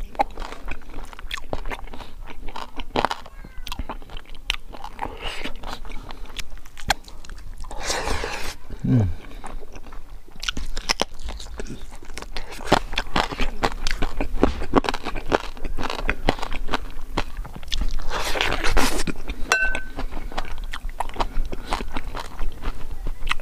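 Crispy fried pork being bitten and chewed close to the microphone: a rapid, irregular run of crunches, with two louder breathy sounds along the way. Near the end a steel spoon clinks lightly against a ceramic bowl.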